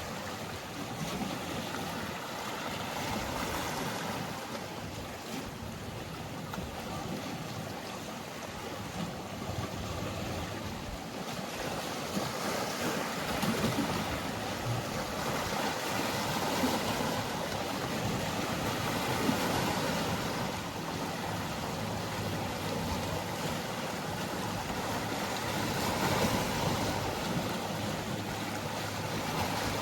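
Sea waves washing against the shore in slow swells, with a faint steady low hum of a boat engine at the start and again near the end.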